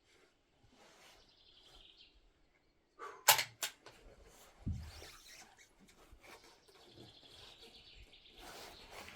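Faint bird calls, with a quick run of three or four sharp clicks about three seconds in and a short low thump a moment later.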